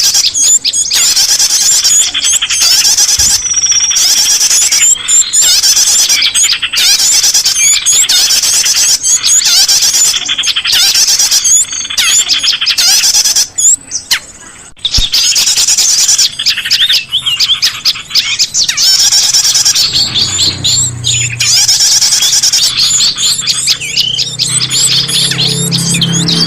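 Dense, high-pitched chirping and trilling of small songbirds, many rapid calls overlapping, used as a bird-luring call recording. A brief lull comes about 14 s in, and a low hum joins from about 20 s in.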